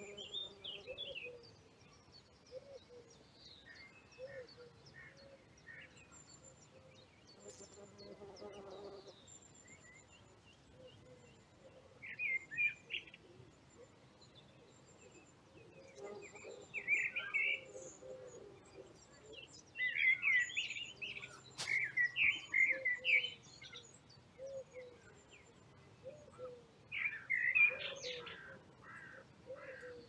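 Songbirds singing in short, separate phrases of high, fluttering notes, with gaps between them; the phrases come more often and louder in the second half.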